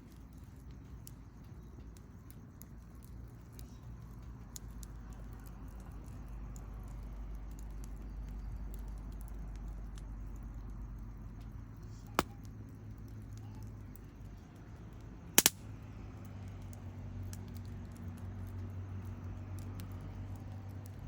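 Wood campfire burning, with faint crackling over a low rumble; one sharp pop about twelve seconds in and a louder double pop a few seconds later.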